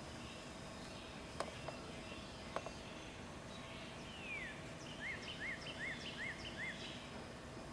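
A bird singing: one falling whistled note about halfway through, then a run of five short, quick repeated notes, over steady outdoor background noise. Two sharp clicks come earlier.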